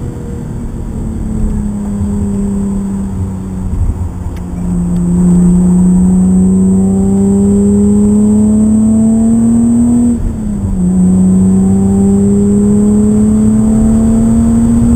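BMW car engine heard from inside the cabin under acceleration on track: it runs lighter for the first few seconds, gets louder about five seconds in as the throttle opens, and climbs slowly in pitch. About ten seconds in the pitch drops for a gear change up, then climbs again as it pulls through the next gear.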